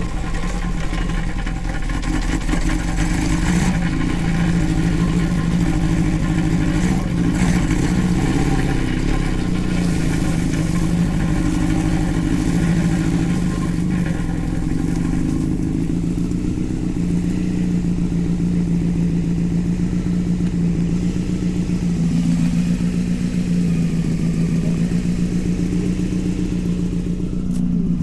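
The 600cc engine of a home-built Power Wheels go-kart running at a fairly steady speed, its pitch wavering slightly now and then.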